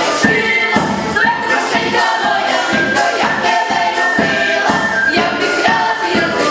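Choir singing with instrumental backing and a steady percussive beat.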